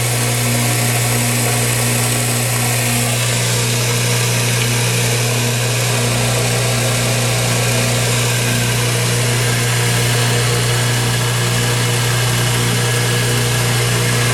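1x30 belt sander driven by a swapped-in 1/3 hp reversible motor, running steadily with a strong motor hum and the rush of the belt. Its owner calls it nice and quiet, purring like a kitten.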